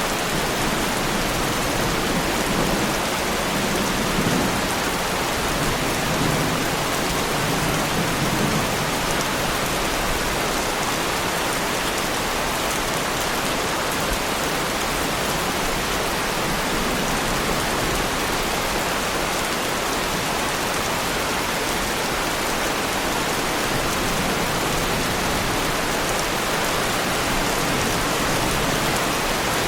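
Heavy rain falling steadily on a Lamborghini Huracán's bodywork, a dense even patter. A low rumble of thunder runs through the first several seconds.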